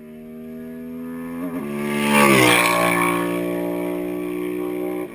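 A vehicle engine pulling with slowly rising pitch. About two seconds in the pitch drops sharply under a loud rush of noise, and the engine settles into a steady lower drone.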